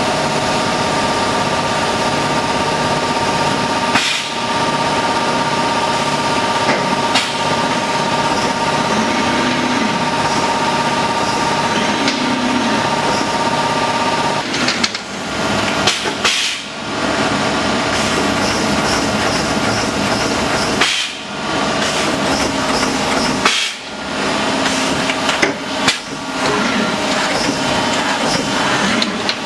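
Strippit 1250S CNC turret press running a program, its punch working steadily in nibbling mode with a high steady whine from the machine. In the second half the running is broken several times by short pauses between operations.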